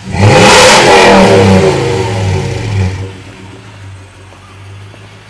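Toyota Tundra's 4.7-litre i-Force V8 revved hard once: it climbs sharply, holds high for about three seconds, then falls back to a steady idle.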